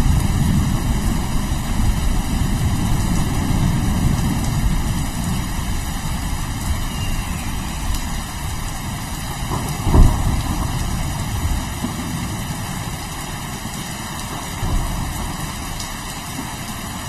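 Low, long rolling thunder over steady rain, slowly dying away, with a sharper thunderclap about ten seconds in.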